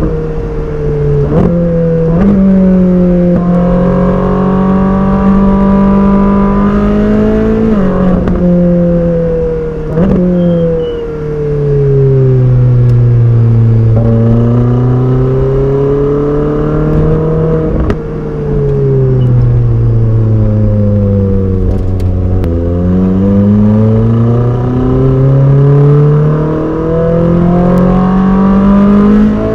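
Ferrari 458 Speciale's 4.5-litre flat-plane V8 being driven hard. The engine note climbs and falls in long sweeps, with quick gear changes marked by sharp cracks and sudden drops in pitch. It shifts three times in quick succession near the start and several more times later.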